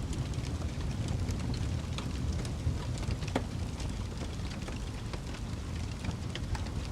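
Fireplace fire crackling: irregular sharp pops and snaps over a steady low rumble of the flames, with a louder pop a little over three seconds in.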